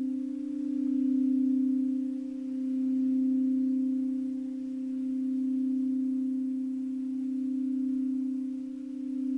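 Singing bowl sustaining one steady low tone with a fainter overtone an octave above, swelling and easing every couple of seconds.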